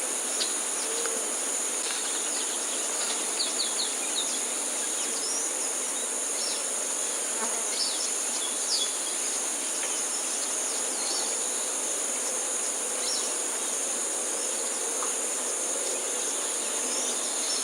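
Steady, high-pitched chorus of insects, with a few short, faint high chirps scattered through it, mostly in the first half.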